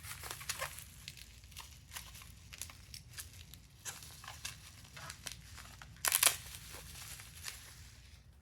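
Packing material, bubble wrap and tissue paper, crinkling and tearing in irregular crackles as a small figurine is unwrapped by hand, with a louder rustle about six seconds in.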